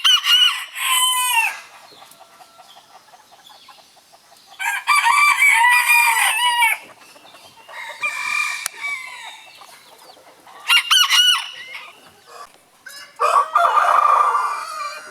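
Roosters crowing several times, one long crow lasting about two seconds, with chickens clucking in the pauses between crows.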